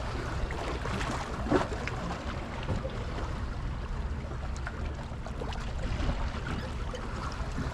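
Steady low engine hum with a few faint, scattered clicks.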